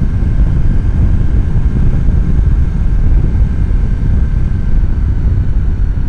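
Wind buffeting a helmet-mounted microphone on a moving motorcycle, with the engine running underneath as a steady loud rumble.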